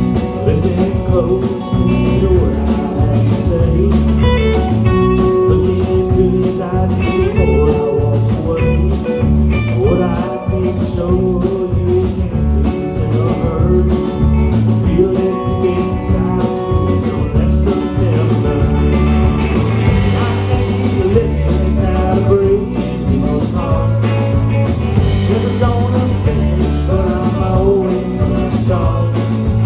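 Live band playing an instrumental stretch of a blues-rock song: guitar over bass and drums, with a steady beat.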